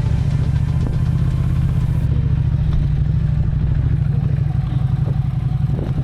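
Ducati Scrambler Desert Sled's air-cooled L-twin engine running steadily under way, heard from on the bike.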